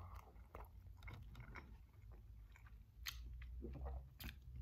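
Faint wet chewing of a mouthful of soft buffalo chicken slider, with shredded chicken and melted cheese in a soft bun: scattered small mouth clicks, and a couple of sharper clicks in the second half.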